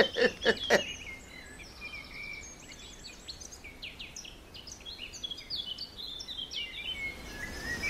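Small birds chirping and twittering: many short, quick calls and trills, high-pitched, over a faint steady background.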